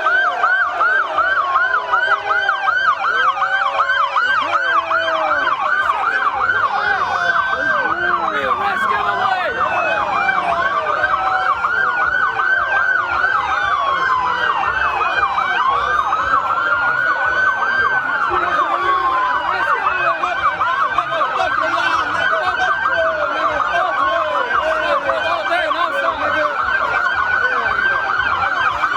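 Several police car sirens sounding at once and overlapping, some in a fast yelp and others in a slow wail that rises and falls every few seconds.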